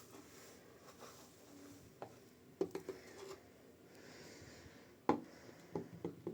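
Scattered light clicks and knocks over a faint room background, like small objects being handled. There is a cluster of clicks a little before the middle, and a sharper knock followed by a few more clicks near the end.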